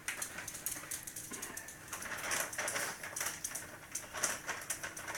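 Light, quick, irregular clicking and tapping, typical of a small dog's claws on a hard floor as she moves about excitedly.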